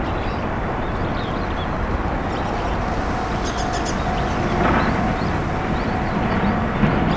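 Distant train running with a steady low rumble; a faint steady whine joins about three seconds in. Small birds chirp briefly over it.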